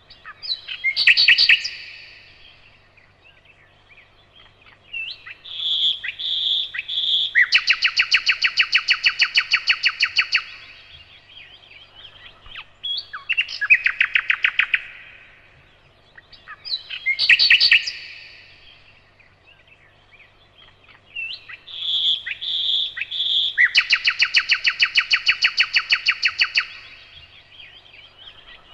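Nightingale singing: phrases of a few loud whistled notes followed by long, rapid trills of repeated notes. The same song sequence comes round twice.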